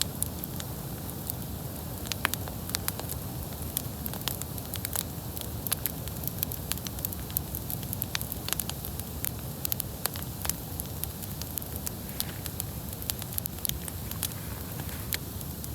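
Wood campfire burning, with frequent sharp crackles and pops over a steady low rumble and hiss.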